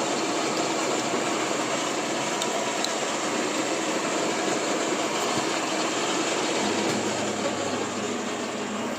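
Milling machine running, a steady mechanical noise as it machines metal parts. A low hum comes in near the end.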